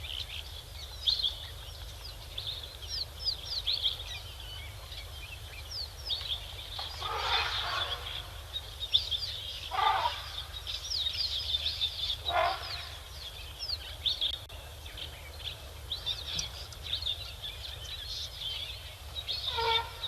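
A chorus of small birds chirping rapidly and continuously, with a larger bird giving a louder, coarse fowl-like call four times, about seven, ten, twelve and nineteen seconds in.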